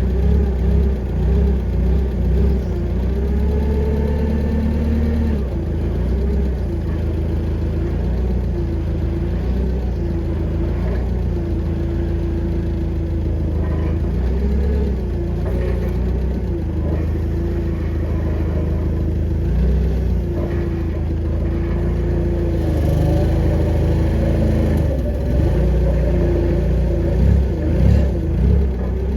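An engine running steadily, its speed rising and falling a little over and over.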